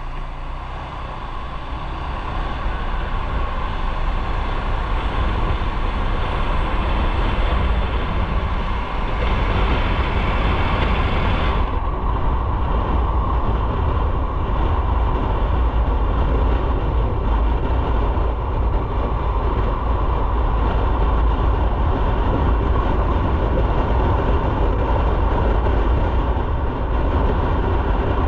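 Motorcycle on the move, its engine and the rush of wind and road heard on an onboard microphone, building up over the first few seconds and then holding steady.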